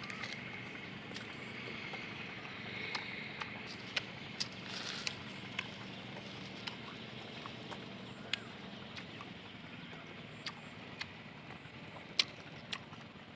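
Close-up eating sounds of a bite of crisp green mango being chewed: irregular sharp crunches and mouth clicks, with a short crisp crunch about five seconds in, over a steady faint background hum.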